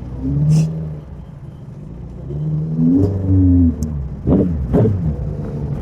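Motorcycle engine revving on the move: its pitch rises and falls twice as it pulls and eases off, then two quick, sharp throttle blips about half a second apart near the end.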